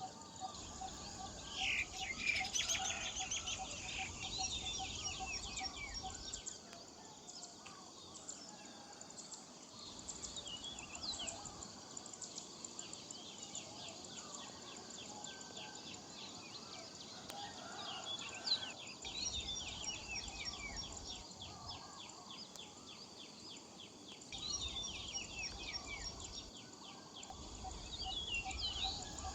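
Several birds calling and chirping together, with overlapping trills, quick falling whistles and rapidly repeated notes throughout. A low rumble comes and goes underneath.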